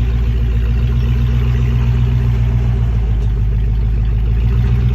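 Off-road rock crawler's engine running steadily at a constant low speed, close by.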